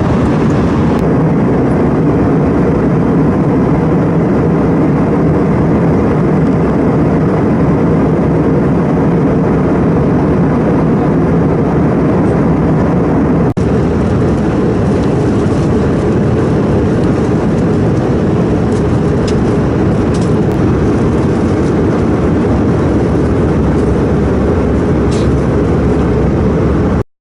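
Steady engine and airflow noise inside the cabin of an Airbus A318 airliner, a low, even roar with a brief dip about halfway through. It cuts off suddenly at the end.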